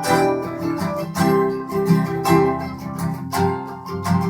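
Acoustic guitar strumming chords in a steady rhythm, in the instrumental gap of a live rock song.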